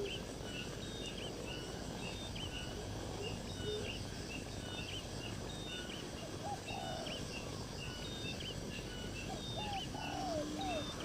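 Birds calling: short high chirps repeated about twice a second, joined by lower rising-and-falling calls about six seconds in and again near the end, over a steady background hiss.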